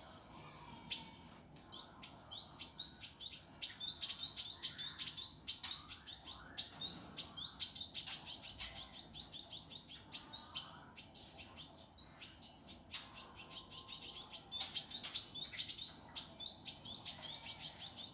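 Indigo bunting singing a fast, dense run of short chirping notes, with a brief lull about two-thirds of the way through.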